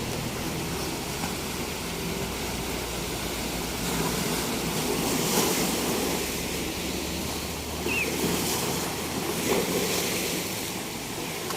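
Sea waves breaking on a beach: a steady wash of surf that swells louder about four seconds in and again between about eight and ten seconds as waves break.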